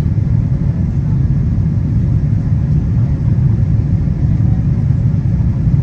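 Steady low rumble of a Boeing 777-200ER's cabin on its approach descent, the engine and airflow noise heard from an economy seat.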